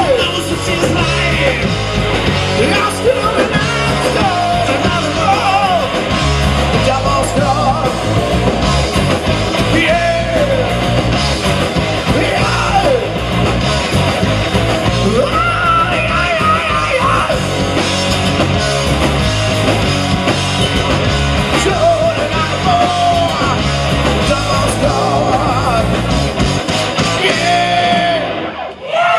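Live rock band playing a loud song with vocals over the full band. The song stops near the end.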